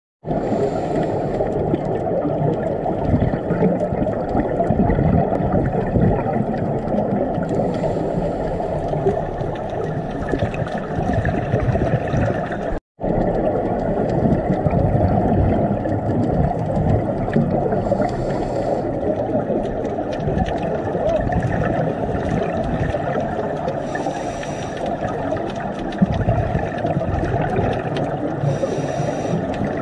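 Underwater sound picked up through a diving camera: a steady, dense rumble of water noise, with short bursts of bubbling hiss from a scuba diver's exhaled regulator bubbles every several seconds. The sound drops out for an instant about midway.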